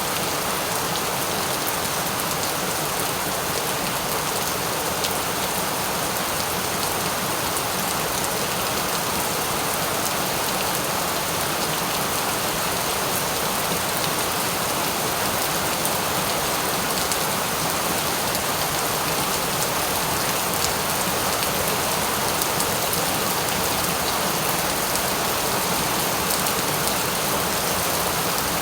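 Steady rain falling and pattering on a surface, an even, unbroken hiss.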